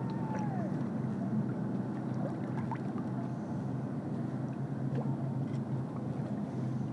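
Steady low drone of a ship's engine heard on board, a constant hum with a wash of noise over it.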